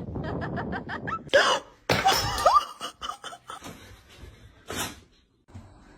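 A person laughing in quick, pulsing bursts, breaking into a few louder outbursts and a short rising squeal about one and a half to two and a half seconds in, then trailing off quietly.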